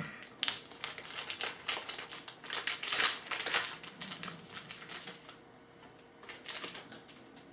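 Crackling and tearing of a trading-card pack wrapper being opened by hand. A run of quick crinkles and snaps thins out about five seconds in, leaving a few softer rustles.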